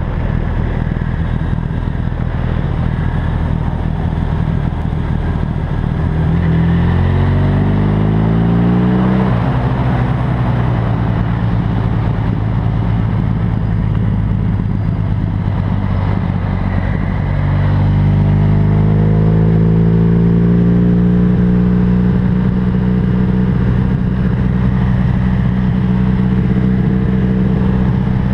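Honda VFR1200F's V4 engine under way at road speed, with wind and road noise. Its pitch climbs as the bike accelerates, drops sharply at an upshift about a third of the way in, climbs again past the middle, then holds steady at a cruise.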